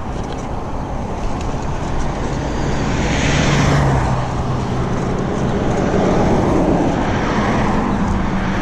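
Motor traffic going past close by on a busy road, with one vehicle passing loudest about three to four seconds in.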